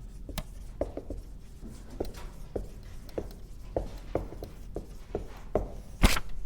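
Writing on a board: a string of short, irregular taps and light scrapes, with one louder knock about six seconds in.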